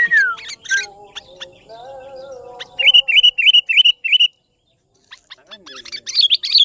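Sooty-headed bulbul calls: a falling whistle, then a run of five quick, evenly spaced chirps, and a burst of higher chirps near the end.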